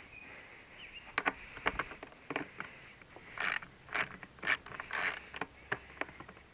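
Ratchet wrench clicking in a series of short strokes as it tightens the tank's mounting bolts. The strokes come at about two a second in the middle of the stretch.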